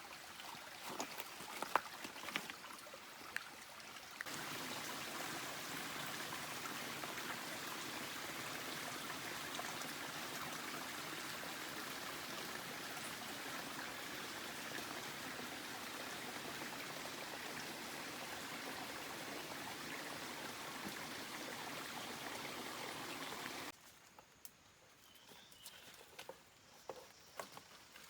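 Steady rush of running water, starting abruptly about four seconds in and cutting off abruptly near the end, with light clicks and knocks before and after it.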